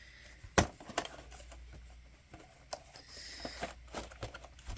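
Scattered clicks and taps of a hard plastic VHS cassette being handled, the loudest about half a second in, with a brief light scrape around three seconds in.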